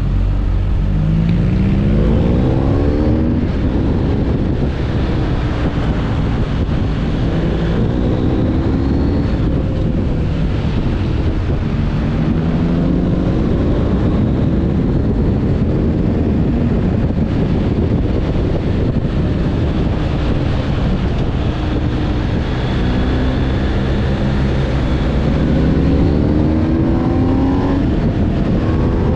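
BMW R 1250 GS's boxer-twin engine pulling through the gears on the road. Its pitch rises and drops back again and again at each change, over a steady rushing noise.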